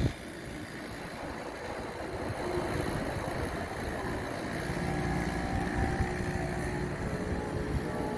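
Go-kart engine running, with rumbling noise; a steady engine tone becomes clear about five seconds in.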